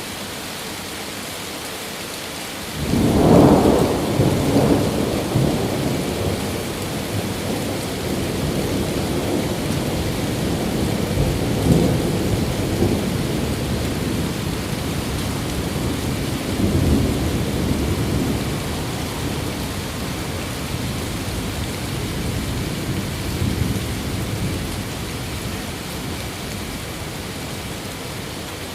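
Steady rain with a thunder clap about three seconds in, breaking into a long rumble that swells again several times before fading.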